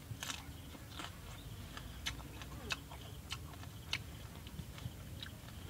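Sharp, irregular clicks and smacks of a man chewing a mouthful of grilled fish, about one or two a second, over a faint steady insect hum.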